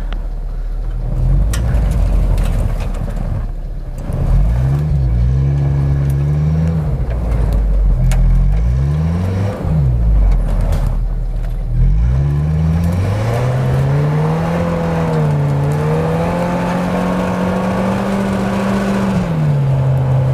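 Suzuki Escudo's engine revving up and down repeatedly, then held at high revs for several seconds before falling back near the end, as it struggles to climb a steep snowy slope through brush. A few sharp knocks sound in the first seconds.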